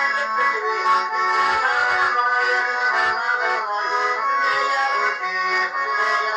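Garmon, a Russian button accordion, playing a melody over sustained chords.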